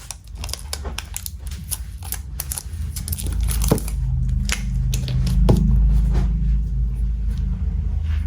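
A metal Zippo lighter being handled: scattered small clicks and taps, with two sharper clicks, one at about three and a half seconds and one at about five and a half, over a low rumble of handling.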